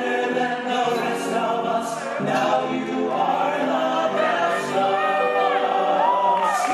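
Recorded music: a choir singing in several voices.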